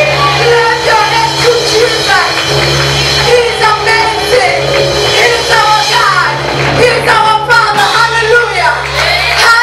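Gospel song: voices singing a melody over steady, held instrumental backing.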